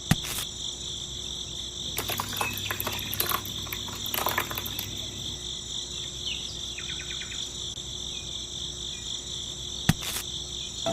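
Steady, high-pitched chirring of insects, with a few sharp clicks near the start and near the end.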